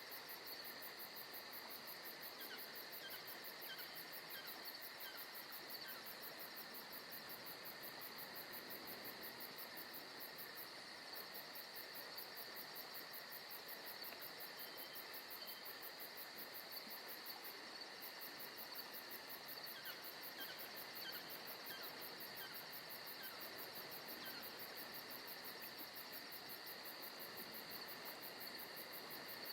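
A steady chorus of insects trilling, with a fast even pulsing high in pitch that breaks off briefly twice. A few faint chirps come through now and then.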